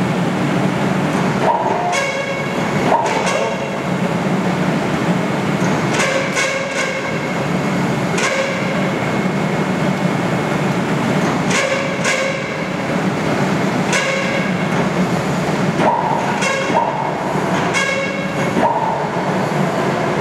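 A passing train's steady rumble with repeated sharp metallic clanks that ring, and a few short squealing tones.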